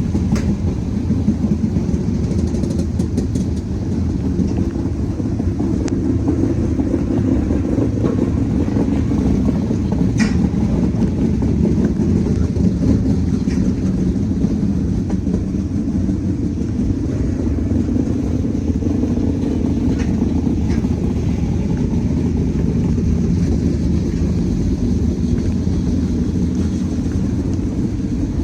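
Diesel freight locomotives running with a steady low rumble, with a few light clicks.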